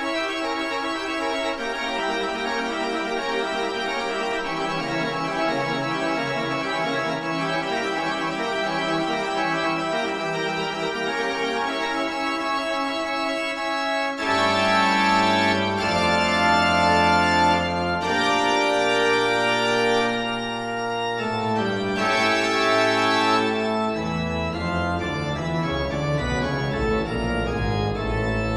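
Background organ music playing held chords; deeper bass notes come in about halfway through and the music grows fuller and louder.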